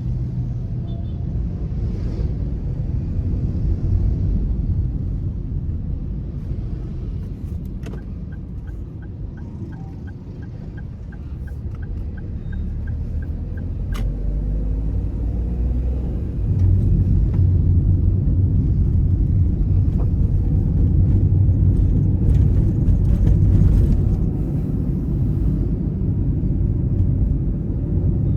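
Car driving, heard as a steady low rumble of engine and road noise that grows louder about halfway through. A light regular ticking, about three a second, runs for about five seconds in the first half.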